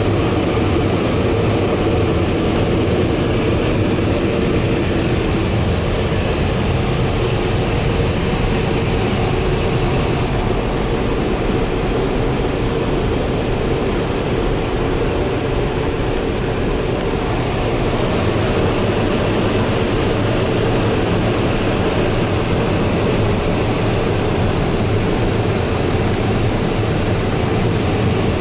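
Steady road and tyre noise inside the cabin of a moving 2017 Tesla Model S. The car is electric, so no engine sound is heard.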